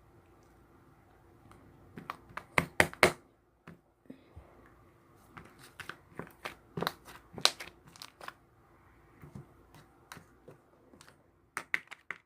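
Crinkly material being handled by hand: irregular crinkling and tearing crackles with sharp taps, coming in bunches, loudest about two to three seconds in and again around seven seconds, over a faint steady hum.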